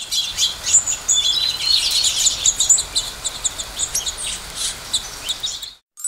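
Swallows singing: a dense run of quick, high twittering chirps over a light background hiss, cutting off suddenly near the end.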